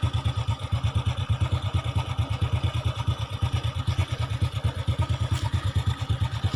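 An engine idling, with an even low throb of about ten beats a second.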